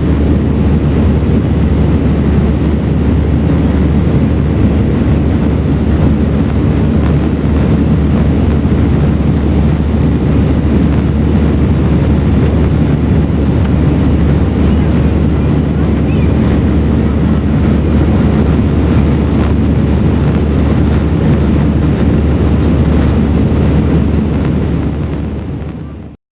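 Steady engine and airflow noise inside the cabin of an Airbus A319 airliner in flight, heard from a window seat. It fades out near the end.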